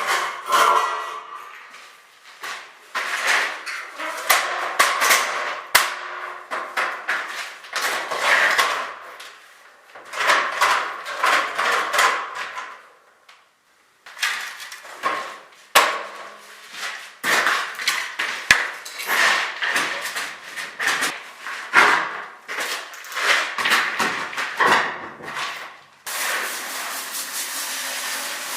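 Masonry work: an irregular run of hammer knocks and scraping as holes in a brick wall are filled in. For the last couple of seconds a steady hiss takes over.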